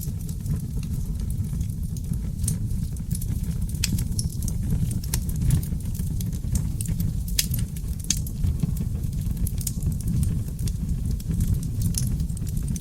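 Wood fire burning in a fireplace: a steady low rumble of flames with many small crackles and sharp pops from seasoned oak logs, scattered irregularly throughout.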